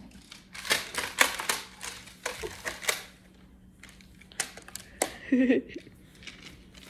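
Plastic magnetic building tiles (Picasso Tiles) clicking and clacking against each other in a quick run of sharp snaps as they are put onto a tile cube. A brief vocal sound comes a little past the middle.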